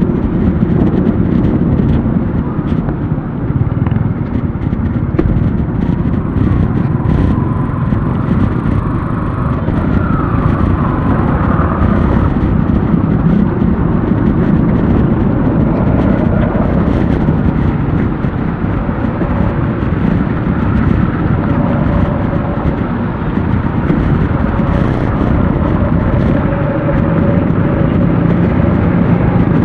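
Steady wind rumble on an action camera's microphone from riding a bicycle, with motor traffic running underneath and faint engine tones drifting in and out.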